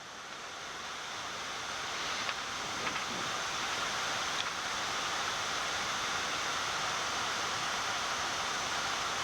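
Steady rushing background noise on the Boeing 787 flight deck during the descent, growing a little louder over the first two seconds and then holding even.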